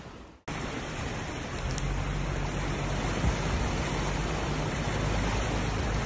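Storm noise: after a short break about half a second in, a steady rushing of wind and water with a low rumble, typical of wind on the microphone over heavy rain or floodwater.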